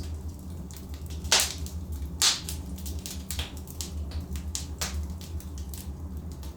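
Logs burning in a fireplace, crackling with sharp pops, the loudest about one and a half and two and a quarter seconds in, over a steady low rumble.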